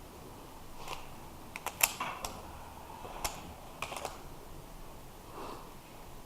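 A pistol being loaded and made ready: a series of sharp clicks and clacks at uneven intervals, the loudest about two seconds in.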